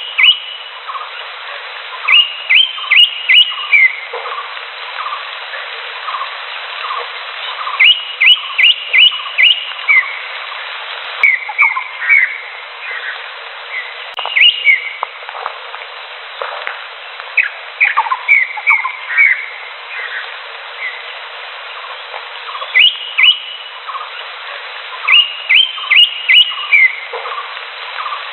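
Green leafbird (cucak hijau) calling: runs of three to five quick rising whistled notes, repeated every few seconds. Under it runs a steadier, lower repeated note about twice a second and a constant hiss.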